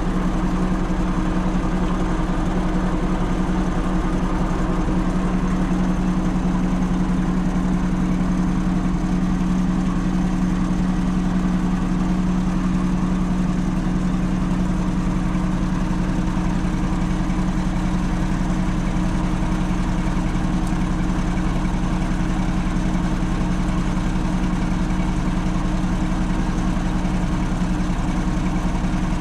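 A machine running steadily at constant speed: an even low hum that keeps the same pitch and loudness throughout.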